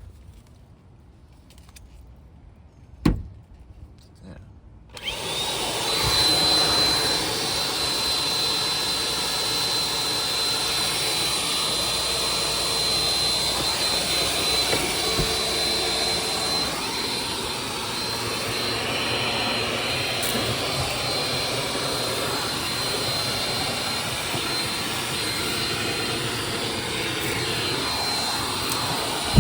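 Vacuum cleaner switched on about five seconds in, its motor spinning up to a steady run with a high whine over a loud rushing noise. Before it, quiet handling sounds and a single sharp knock.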